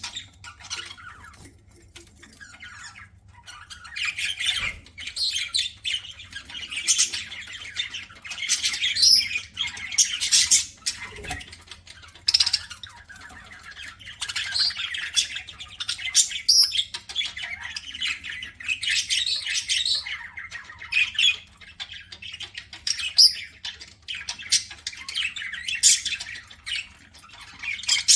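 Pet budgerigars chattering and squawking in irregular bursts of high, scratchy calls, with short lulls between them.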